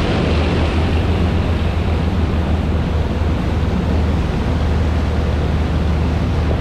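Steady engine drone with a constant low hum, under an even rushing noise of wind and water.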